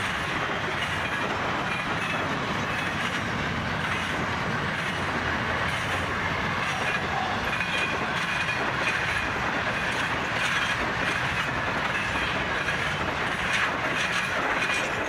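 Freight train wagons loaded with shipping containers rolling past, a steady rumble of wheels on rail with a faint high squeal from the wheels.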